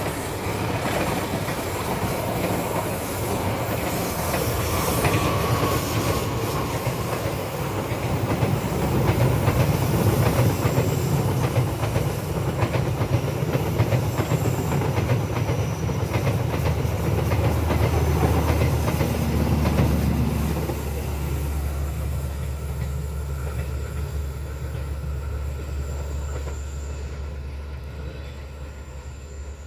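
Passenger train passing close by at speed: a steady rush and clatter of wheels on the rails over a low rumble, dying away over the last few seconds.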